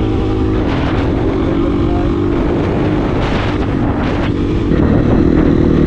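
KTM 350 four-stroke single-cylinder dirt bike engine running at a fairly steady throttle on a trail ride, with wind buffeting the camera microphone.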